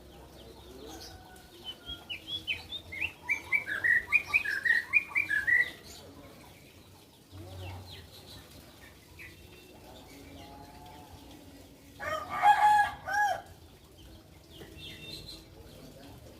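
Birds calling: a quick series of short, high chirps, about four a second, for roughly four seconds, then fainter calls. Near the end comes one loud, fuller call lasting just over a second.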